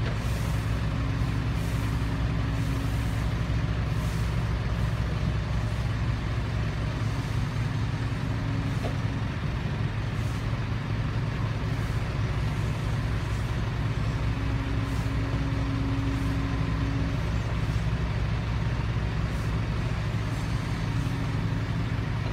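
Heavy diesel engine running steadily at a constant pitch, with a faint higher tone that comes and goes a few times.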